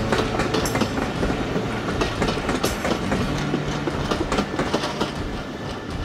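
Passenger coaches' wheels clattering over rail joints as a train runs past, a steady rumble with many sharp clicks.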